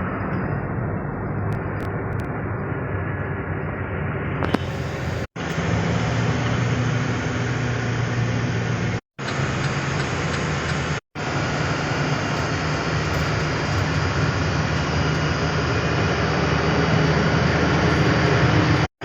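Truck driving on a highway: steady engine hum and road noise. The sound drops out suddenly for a split second four times, at edit cuts.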